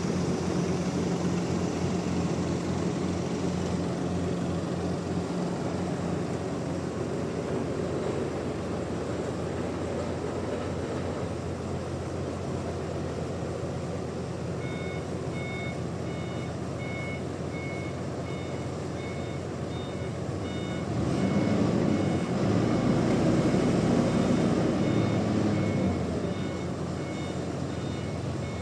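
Heavy engine running steadily, with a vehicle's reversing alarm beeping repeatedly from about halfway. The engine revs up and grows louder for a few seconds near the end, then settles again.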